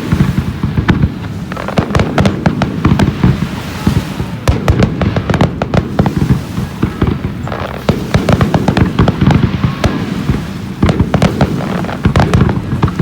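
Fireworks going off in rapid, dense volleys of sharp bangs and crackling, coming in clusters with brief lulls between them.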